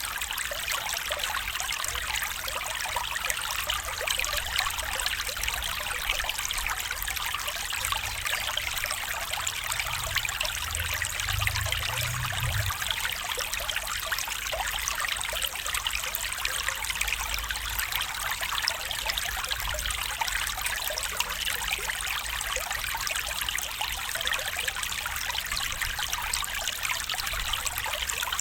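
A stream running and trickling steadily, with a brief low rumble about ten seconds in.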